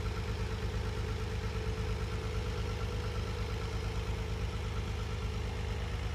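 Nissan 300ZX Twin Turbo's 3.0-litre twin-turbo V6 idling steadily at operating temperature, with an even low pulsing.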